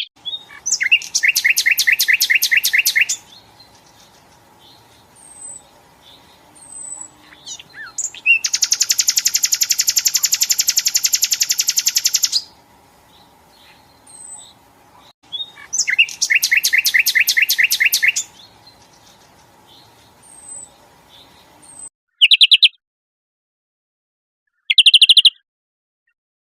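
Recorded songbird song: loud, rapid trills in three long phrases, the middle one about four seconds long, with thin short chirps between them and over a faint steady hum. Two brief trills follow near the end, separated by silence.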